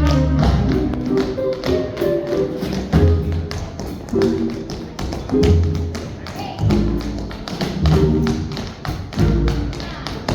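Tap shoes striking the floor in fast, sharp taps, mixed with swing music.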